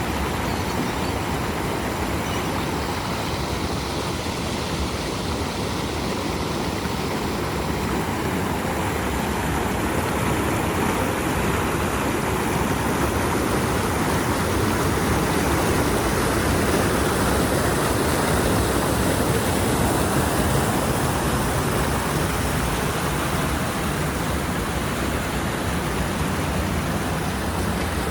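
A four-wheel drive on the move: steady engine and tyre noise that swells slightly midway.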